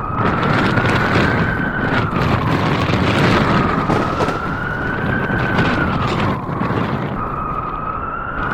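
Blizzard wind howling, with a whistling tone that slowly rises and falls in pitch over a steady rush of noise, and a few short clicks and knocks.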